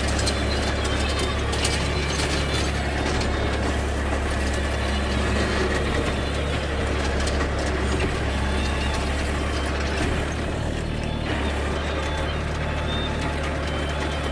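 Force Orchard mini tractor's diesel engine running steadily with a Dharanee rotavator, with a constant low drone and rapid clattering and rattling from the tiller. The engine note shifts slightly about ten seconds in.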